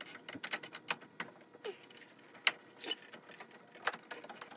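Irregular sharp metallic clicks and clinks of small hardware: washers and lock nuts being handled and started onto the oil cooler's mounting U-bolts.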